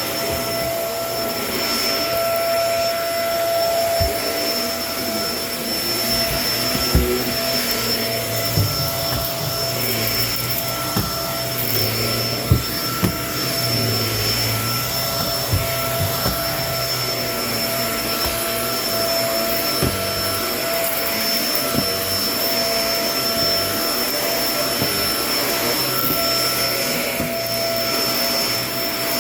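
Kenmore vacuum cleaner running steadily with a whining motor, with scattered short clicks and knocks through it, loudest around a third and a half of the way in.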